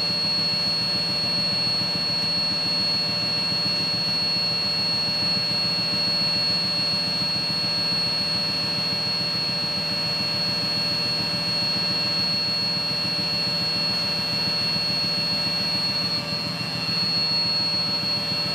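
Air handling equipment running steadily in the economizer's air chase, a constant rush of machinery and air with a steady high-pitched whine over a low hum.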